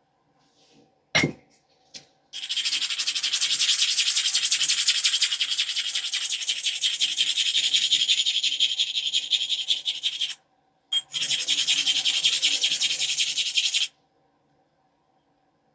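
A sharp click about a second in, then an abrader rubbed rapidly back and forth along the edge of a stone biface: a long stretch of grinding of about eight seconds and, after a short break, another of about three. The edge is being abraded to strengthen it for flaking.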